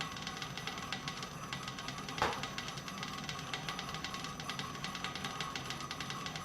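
Bridgeport milling machine running with the spindle turning a boring head that takes a light cut in a bore, a steady rapid ticking throughout, with one sharp click about two seconds in.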